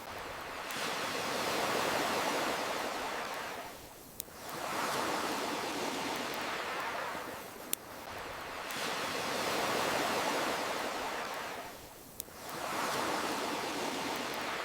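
Ocean waves washing in and drawing back in a slow swell-and-ebb rhythm, with a few sharp clicks where the wash dips.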